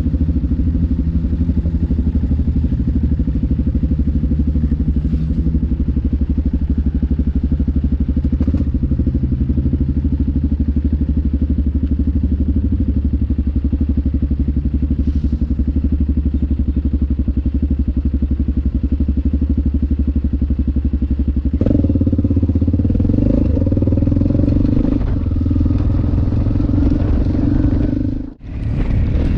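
Yamaha XT600E's single-cylinder four-stroke engine running at a steady speed, with a few faint clicks. About 22 seconds in, the engine note changes and gets louder. Near the end the sound drops out for a moment.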